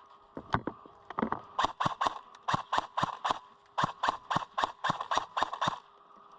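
Running footsteps on hard ground, about three to four steps a second with two short breaks, stopping shortly before the end.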